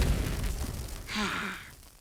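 Cartoon soundtrack: the tail of a loud crash or boom dying away, then a breathy sigh from a character about a second in, fading out.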